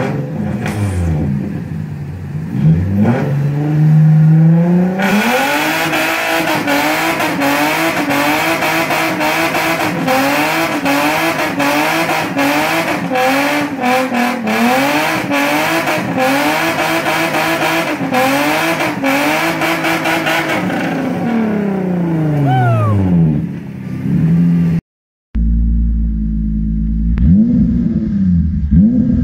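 Nissan 350Z's 3.5-litre V6 revved hard through a burnout. The revs climb, then from about five seconds in the rear tyres spin and screech for about fifteen seconds while the engine revs bounce quickly up and down. The revs then fall away. After a short break a second 350Z is revved in short rising-and-falling blips.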